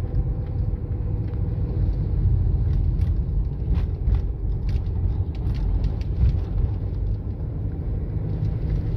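A car driving, with a steady low engine and road rumble; a faint hum fades out about two seconds in.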